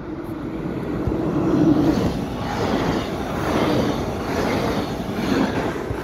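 Yellow-and-blue NS double-deck intercity train running past at speed: a rumble of wheels on rails that swells as it nears, peaks about two seconds in, and stays loud as the carriages go by.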